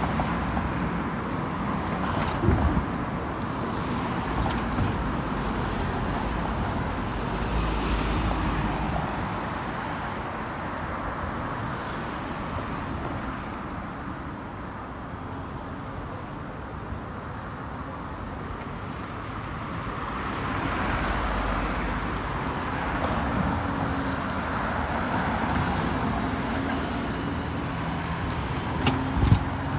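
Street traffic: a steady wash of road noise as vehicles pass, swelling as one goes by about eight seconds in and again past twenty seconds, with an engine humming steadily for a few seconds after that and a couple of sharp knocks near the end.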